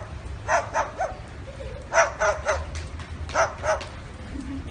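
Parrot imitating a dog's bark: about seven short barks in clusters of two, three and two, over a steady low hum.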